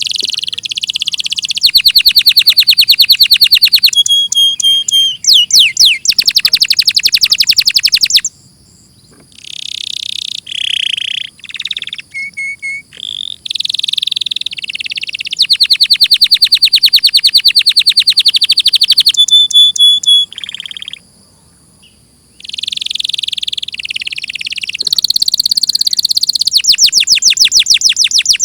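Domestic canary singing: long runs of fast, rapidly repeated trilled notes and quick high rising sweeps, broken by two short pauses.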